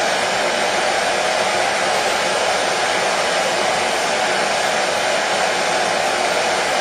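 Hair dryer running steadily: an even, unchanging whoosh of its fan and blowing air.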